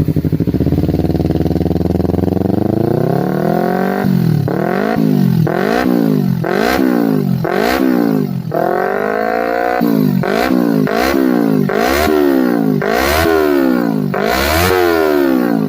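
Kawasaki Ninja 250 Fi motorcycle engine through an aftermarket exhaust, climbing smoothly from idle over the first few seconds, then revved in quick repeated throttle blips about once a second, each dropping straight back, with one longer held rev in the middle.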